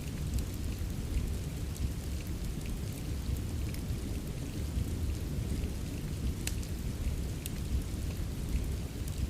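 Rain and fireplace ambience: a steady, deep rumbling wash of rain with scattered small crackles and ticks, two sharper cracks near the end.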